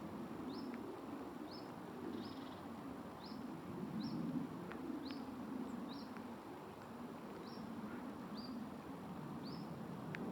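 Great spotted woodpecker giving its short, sharp high "kik" call about once a second, roughly a dozen times, over a steady low background rumble.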